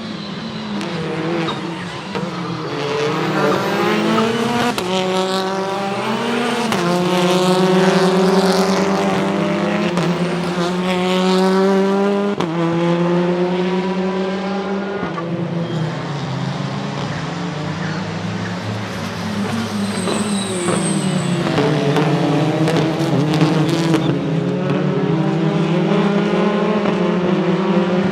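Hyundai Elantra N's turbocharged 2.0-litre four-cylinder engine under hard acceleration, revs climbing and dropping sharply at each gear change, easing off midway and building again near the end.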